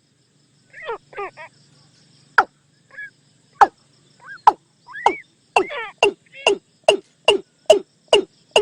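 Watercock (Gallicrex cinerea) calls played as a decoy lure: a series of sharp, steeply falling notes that speed up from about one a second to more than two a second, with shorter, quieter chevron-shaped calls between them.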